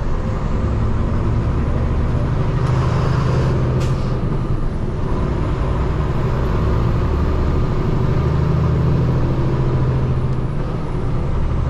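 Peterbilt 589 dump truck's diesel engine running steadily at low speed, with a short hiss and a sharp click about three to four seconds in.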